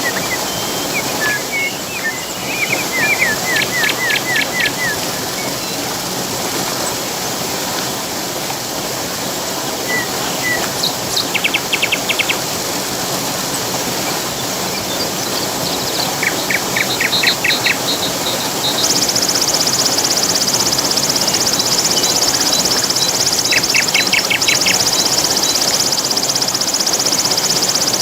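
Steady rush of flowing water with songbirds calling over it in short runs of rapid repeated notes, several times. About two-thirds of the way in, a high, fast-pulsing insect buzz starts and becomes the loudest sound.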